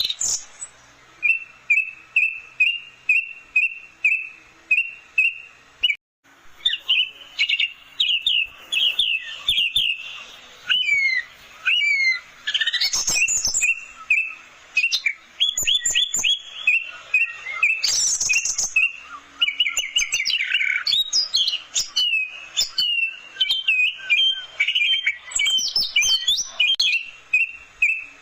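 Orange-headed thrush singing: a run of short notes repeated about two to three times a second, then after a brief break about six seconds in, fast, varied whistled phrases with quick trills.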